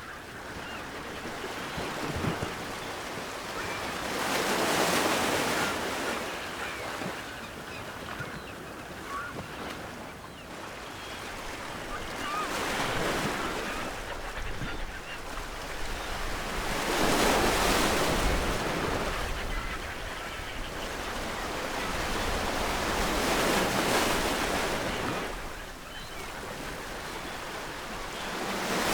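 Ocean waves breaking on a shore, the surf swelling and falling back in surges several seconds apart.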